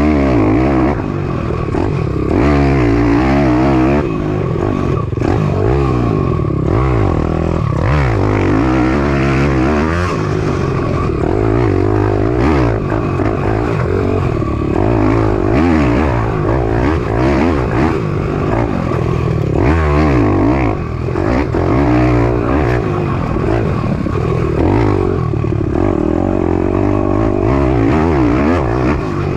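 Piranha 190 pit bike's four-stroke single-cylinder engine revving up and down while being ridden hard, its pitch rising and falling again and again.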